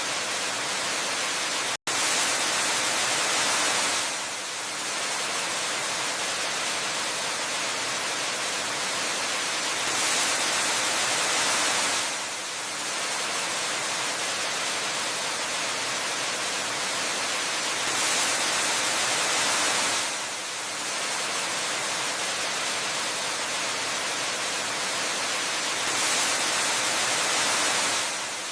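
Steady rushing of a waterfall, a dense even hiss of falling water. It swells slightly louder for about two seconds roughly every eight seconds, and cuts out for a split second near two seconds in.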